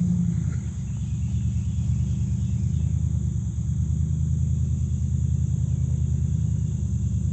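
Pickup truck engine running steadily with its exhaust cut off, a deep, even rumble of firing pulses.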